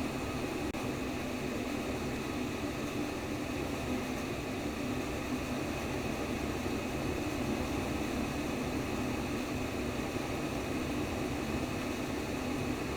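Steady, unchanging white noise made to imitate the sound inside the womb, an even hiss with no pauses or beats.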